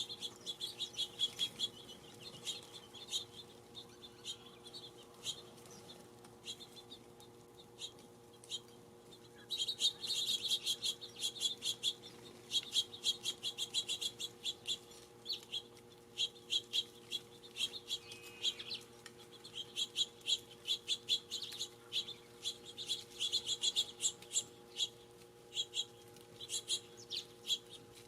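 Small songbirds chirping at a feeder: many short, high chirps in rapid runs, busiest from about a third of the way in.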